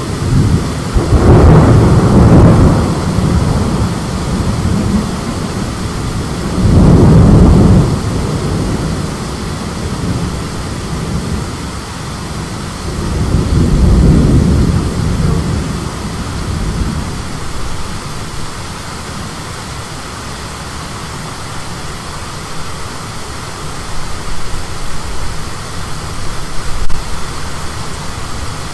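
Thunder rumbling over steady rain, with three loud rolls: about a second in, around seven seconds in, and around fourteen seconds in.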